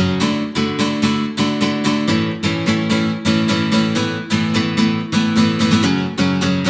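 Background music: acoustic guitar strummed in a quick, steady rhythm.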